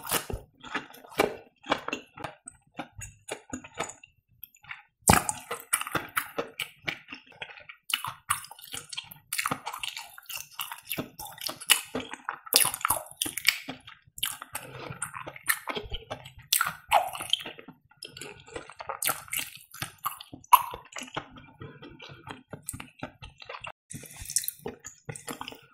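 Close-miked wet chewing of breaded fried cheese: sticky mouth sounds made of many small, irregular clicks and smacks.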